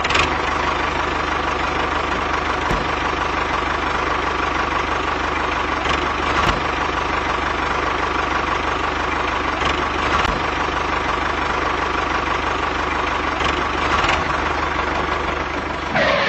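Small electric motor of a DIY mini tractor running steadily with a whine, with a few light clicks along the way.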